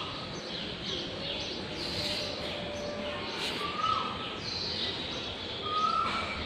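Small birds chirping: many quick high chirps, and a lower short call that drops in pitch, repeated about every two seconds.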